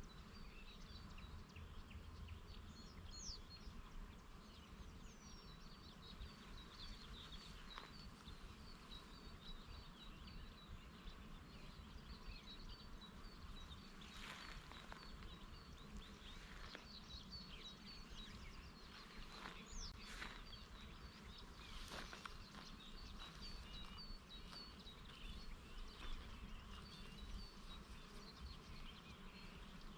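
Faint summer field ambience: small birds chirping many times over, with a few louder calls, over a low steady rumble of breeze.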